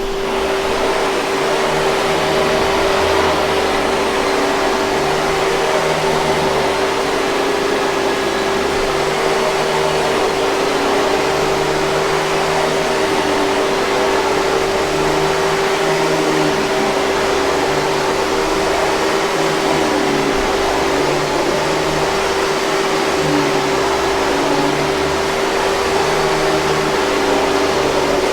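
Hoover 5000 Series canister vacuum cleaner running steadily: a constant rushing of air with one steady motor hum under it.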